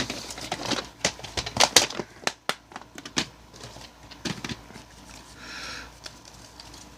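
Plastic VHS tape cases being handled: a quick run of clicks and knocks, then a soft rustle.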